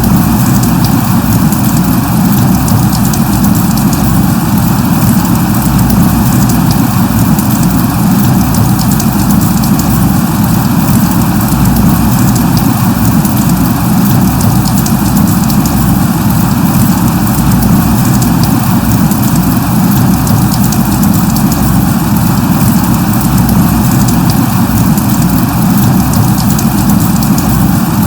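Light rain (drizzle) falling steadily: an even hiss with scattered faint drop ticks, over a strong steady low rumble.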